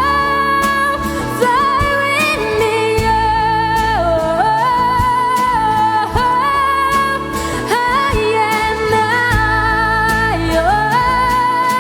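Live rock band of electric guitars, bass guitar and drums playing, with a high melody line held in long notes with vibrato and sliding pitch changes over a steady beat.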